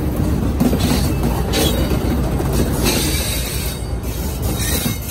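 Passenger coaches of a train rolling past on the rails: a steady low rumble of wheels on track, with a couple of brief higher, hissing surges.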